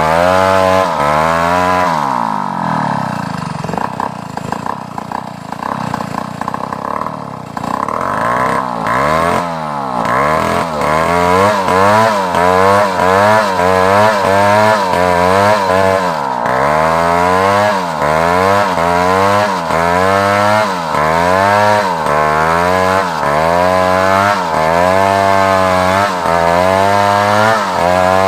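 Large chainsaw cutting African wood (Maesopsis), its engine pitch rising and falling about once a second as the chain bogs in the cut and frees. Between about two and eight seconds in the engine runs lower and quieter, then picks up again.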